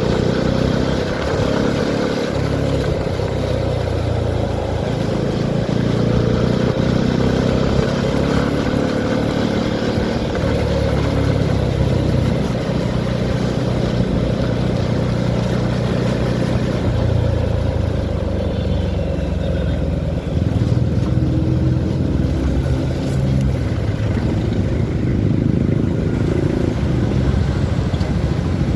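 Motorcycle engine running under way with a steady rush of wind noise; the engine pitch steps up and down several times as the revs and gears change.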